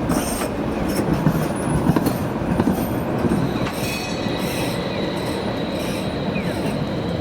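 Toyama Chiho Railway city tram running on street track: a steady rumble with repeated clacks of the wheels over rail joints. A thin, steady wheel squeal joins about halfway through.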